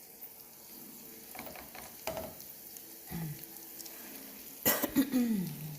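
Chicken pieces sizzling and frying in a pot of butter, garlic, curry and carrots, with stirring. About five seconds in comes a loud sudden burst of noise followed by a brief falling vocal sound.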